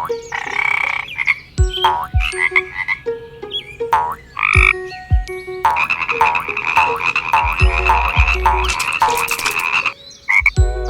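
Frogs croaking: short bursts of croaks, then a longer run of rapid croaks in the second half, with a few short low thuds between them.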